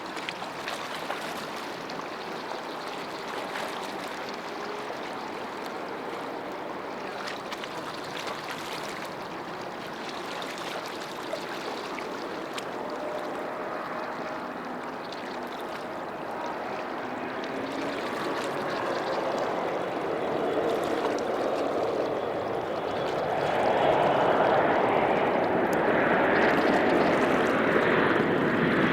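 Distant jet aircraft engine noise, a steady rush that grows louder in the last third.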